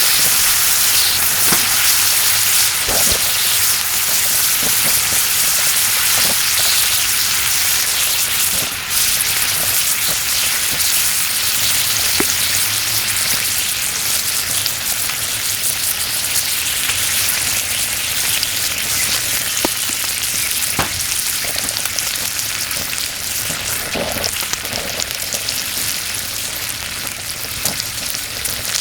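Yakiniku meat sizzling steadily as it grills on top of a kerosene heater, with scattered sharp pops of spitting fat.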